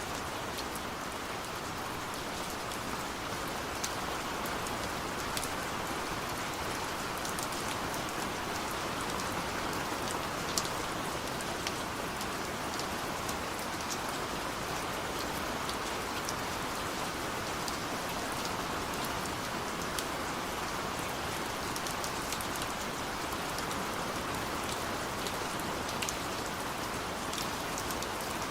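Steady rain falling on a surface, with individual drops ticking sharply now and then over the even hiss.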